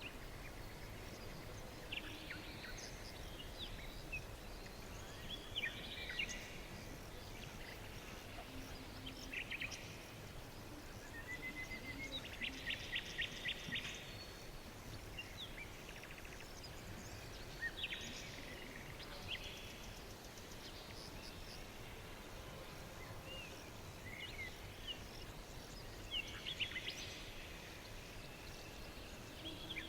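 Songbirds singing and calling in short, scattered phrases, with a fast run of repeated notes about twelve seconds in, over a steady low background hum.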